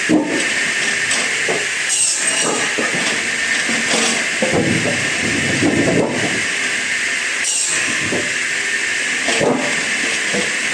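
Steady hiss of wood-processing machinery, with scattered knocks and clatter of wood being handled, busiest in the middle.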